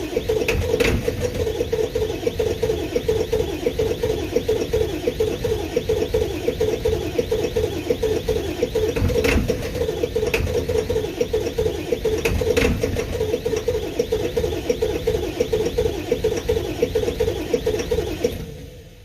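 Straight-piped 7.3-litre turbo diesel V8 running at idle with a fast, uneven pulsing exhaust note, in its first minutes after a cold start at 10 °F on bad glow plugs. The sound fades out near the end.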